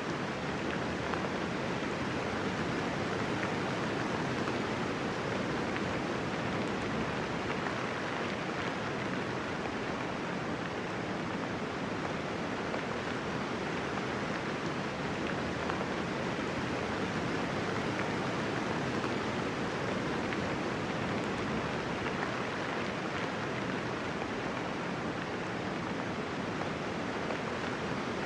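Steady, even rain, a soft hiss of many drops with no thunder and no single drops standing out.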